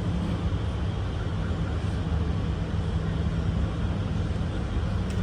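Steady low hum and hiss inside an SMRT R151 train car, from its running equipment and ventilation.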